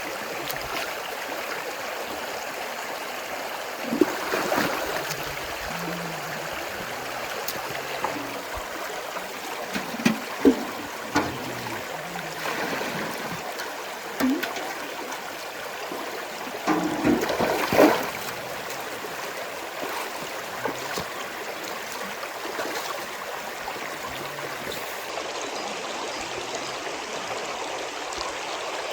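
Steady rush of running water, like a stream, with a few short knocks and clatters, loudest about two-thirds of the way through.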